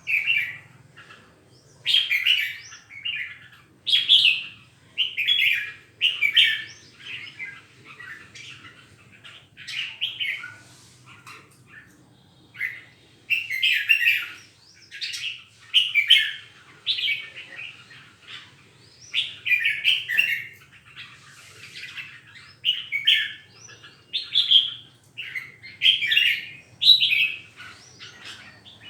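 Caged red-whiskered bulbul singing, short warbling phrases repeated every second or two.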